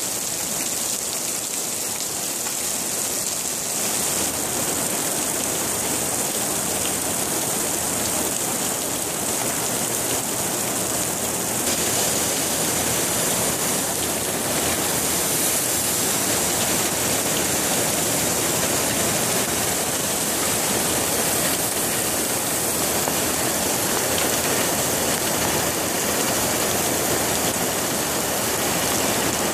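Heavy rain coming through a shop roof and pouring down onto steel beams, rails and a flooded floor, a steady dense hiss of falling and splashing water that turns a little brighter about midway.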